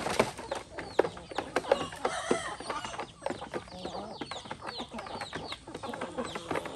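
A flock of chickens clucking and calling over many sharp pecking clicks and knocks, typical of hens feeding.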